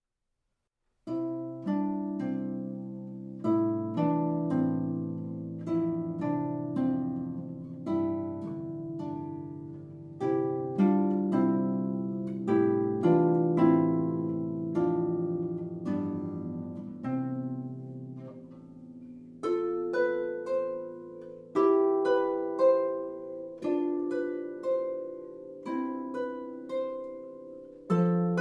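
Harp playing a simple beginner's piece: plucked notes, often in two- or three-note chords, each ringing and fading, in a steady rhythm of about two a second. It begins about a second in.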